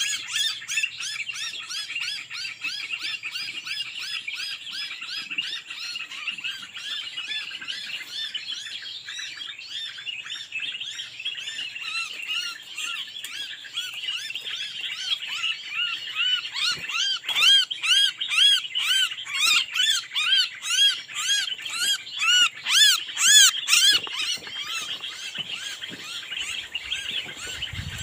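Small birds chirping in a dense, rapid stream of short arched notes, getting louder in the second half.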